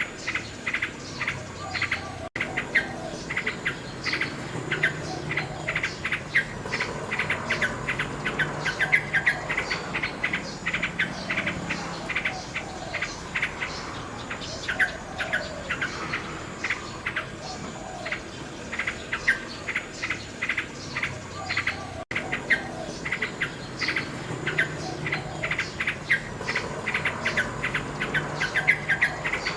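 Nightingale singing: a continuous run of rapid, varied chirps and whistled notes, over a steady high trill of insects. The sound cuts out for an instant twice.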